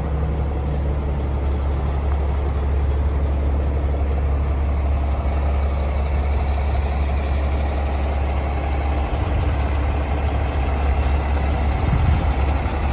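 Cummins X15 inline-six diesel of a Peterbilt 389 truck idling steadily.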